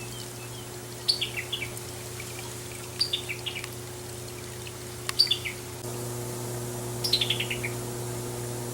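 Male summer tanager calling. Each call is a short staccato run of clipped notes falling in pitch, and it comes four times at about two-second intervals.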